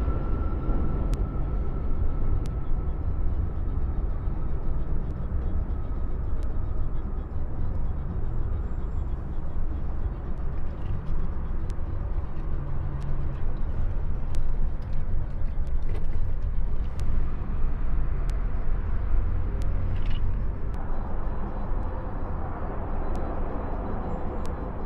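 Steady low rumble of bridge traffic, with scattered light clicks and a faint high whine that fades away in the first few seconds.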